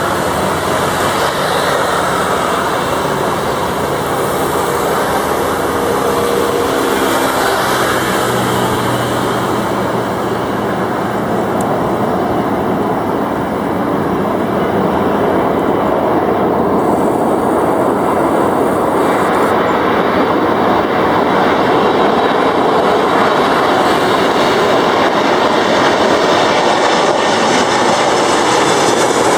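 Jet engines of a four-engine Boeing 747-400ERF freighter landing: a loud, steady roar, with a few low steady engine tones in the first several seconds, slowly growing louder toward the end.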